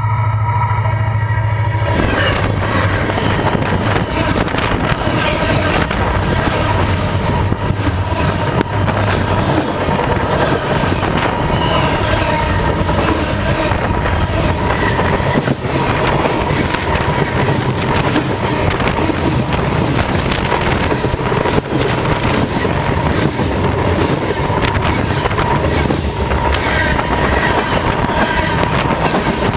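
Union Pacific freight train led by an SD70ACe locomotive rolling directly over a camera set between the rails. A low rumble of the approaching train gives way about two seconds in to a sudden loud, steady rush of wheels on rail, with rapid clicking and a steady high tone throughout.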